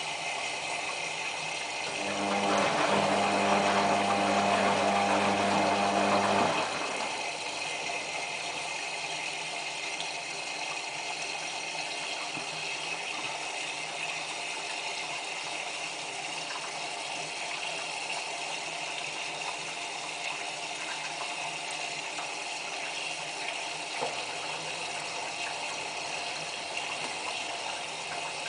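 Whirlpool AWM4066 washing machine in its final rinse, water running steadily into the drum as it fills. A louder steady mechanical hum joins in from about two seconds in and stops suddenly about four seconds later.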